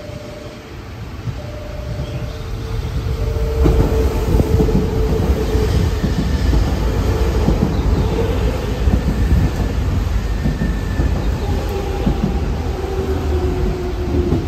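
Nankai electric commuter train passing through the station without stopping. Its rumble and wheel clatter over the rail joints grow loud about three and a half seconds in and carry on as the cars go by, with a faint motor whine. An intermittent beeping tone sounds through the first few seconds.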